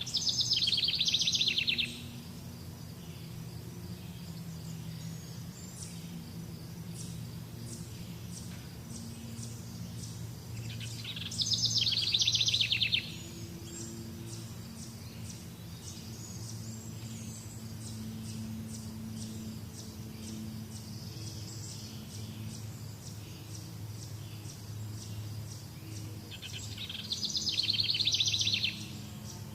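A songbird singing a fast trilled phrase about one and a half seconds long, three times roughly fifteen seconds apart. Between phrases there are faint high repeated chirps and a low steady hum.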